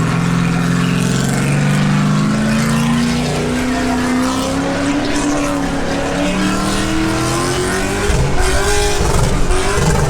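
A car's V8 engine revving hard during a burnout, its pitch climbing slowly and steadily and held high. It gets louder and rougher about eight seconds in.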